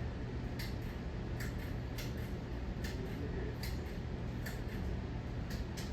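A 52-inch ceiling fan running with a steady low hum and a repeating double tick about every three quarters of a second.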